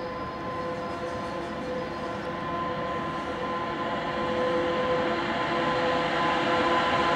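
A freight train hauled by a Pesa Gama electric locomotive with an M62 diesel coupled behind it, approaching and growing steadily louder. A steady hum of two held tones runs over the rumble of the locomotives and wagons.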